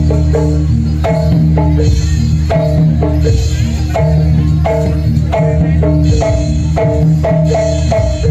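Live jaranan gamelan music: struck keyed percussion plays a quick repeating figure of notes over hand-drum strokes and a steady low ringing tone.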